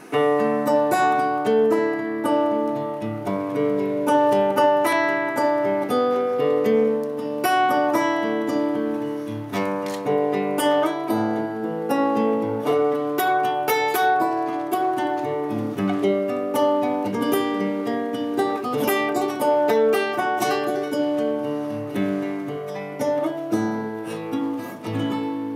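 Acoustic guitar played solo: plucked notes and chords over sustained low bass notes, the instrumental introduction to a song before the singing begins.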